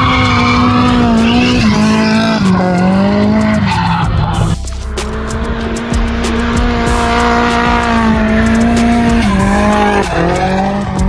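Nissan Silvia S14's turbocharged SR20DET four-cylinder held at high revs through a drift, the pitch dipping briefly several times, with tyres squealing and skidding.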